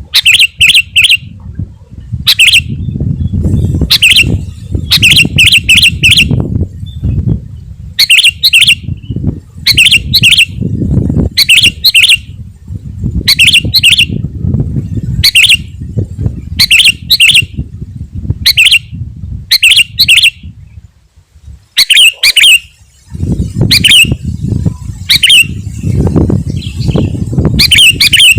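Sooty-headed bulbul singing: short bubbly phrases of three or four quick notes, repeated about every second, over a low rumble.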